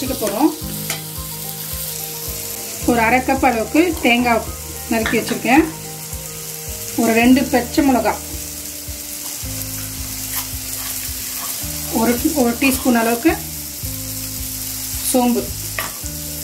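Chopped tomatoes and onions frying in oil in a stainless steel kadai, sizzling steadily as they are stirred, the tomatoes softening down. Short wavering pitched phrases, like a melody, come and go several times over the sizzle.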